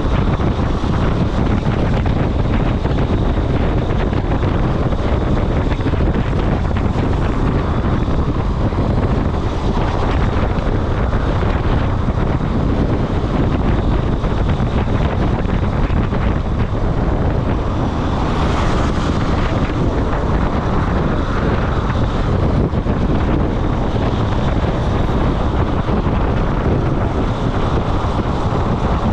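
Wind buffeting the microphone: a steady, loud rumble of noise, heaviest in the low end.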